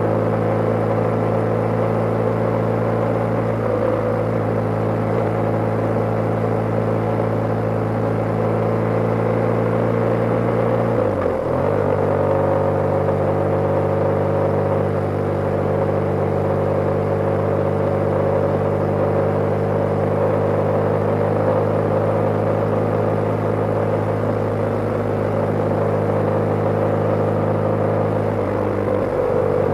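BMW G/S motorcycle's air-cooled boxer twin running steadily under way, with wind and road noise. The engine note breaks briefly and settles at a new pitch about eleven seconds in and again near the end, as at gear changes.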